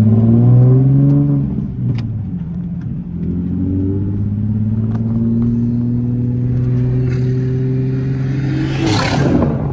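BMW M340i's turbocharged 3.0-litre inline-six, fitted with an aftermarket cold air intake, accelerating in a flyby. The revs climb, dip briefly about a second and a half in, then climb steadily for several seconds. Near the end the car passes close with a short burst of rushing noise and a bend in pitch.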